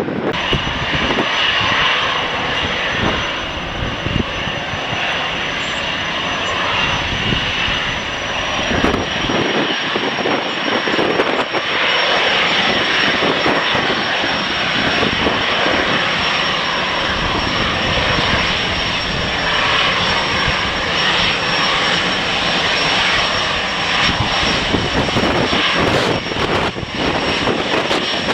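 Jet airliner's engines running loud and steady, with a thin high whine that drops slightly in pitch about eight seconds in. Gusty wind buffets the microphone.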